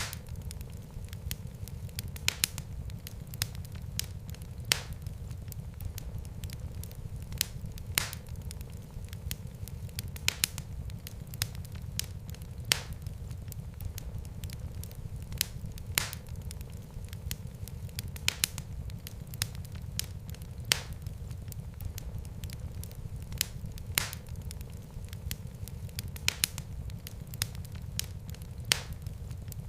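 Fire burning in a fireplace: a steady low rumble of flames with sharp crackles and pops at irregular intervals.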